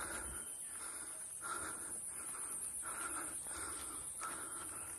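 A bird calling in a steady series of short repeated notes, about three every two seconds, over a continuous high-pitched drone of insects.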